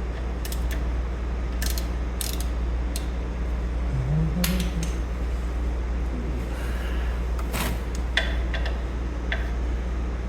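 Scattered sharp metallic clinks and taps of hand tools and metal parts being handled while working at a skid steer's hydraulic drain plug, over a steady low hum.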